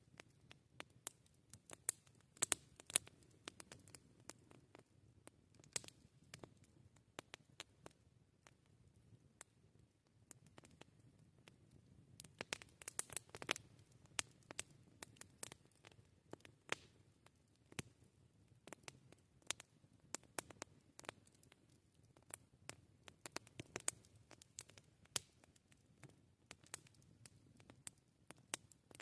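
Wood campfire crackling: irregular sharp snaps and pops over a faint low background, busiest just after the middle.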